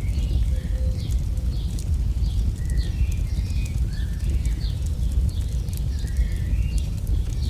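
AI-generated campfire crackling over a steady low rumble, with birds chirping many times in short calls.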